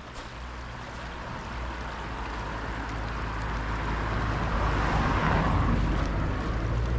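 River water flowing, its noise swelling to a peak about five seconds in, over a low wind rumble on the microphone.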